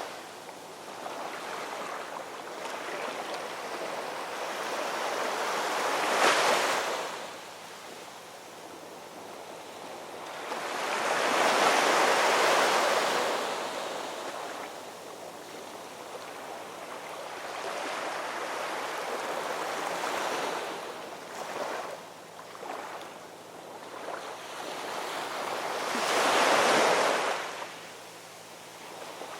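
Ocean waves breaking and washing on a shore, rising in a surge every six or seven seconds and falling back between, with the biggest crashes about twelve seconds in and near the end.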